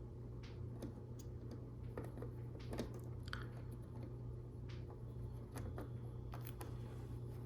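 Plastic Lego Technic pieces clicking and rattling as they are handled and pressed together, a scatter of small sharp clicks over a steady low hum.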